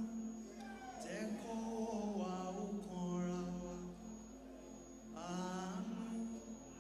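A man singing a slow gospel worship song in long, chant-like phrases over a steady instrumental backing.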